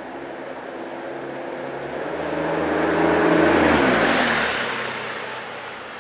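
Toden Arakawa Line flower tram passing close by: its running hum swells to a peak a little past the middle, the tones drop in pitch as it goes by, then fade away.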